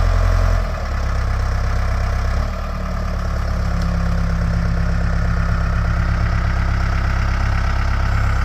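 Backhoe's diesel engine running steadily as it lifts a whole tree. Its note drops a little just under a second in and again about two and a half seconds in, then holds steady.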